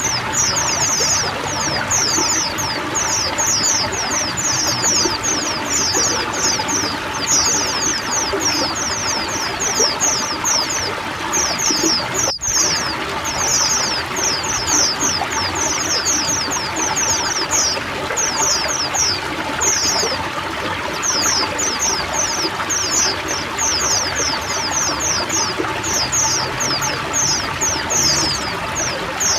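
Running water pouring steadily, with a flock of white-eyes chirping over it in quick, high, falling calls, several a second. The sound briefly cuts out about twelve seconds in.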